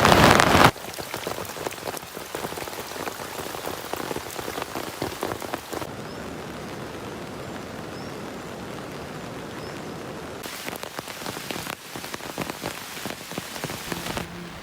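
Rain falling steadily, with many small drop ticks pattering on surfaces. A louder rush of noise cuts off abruptly just under a second in.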